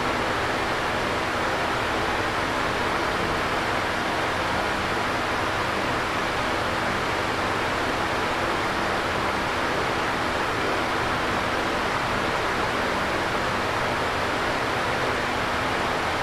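Electric fan running steadily: an even rush of moving air with a faint low motor hum under it, unchanging throughout.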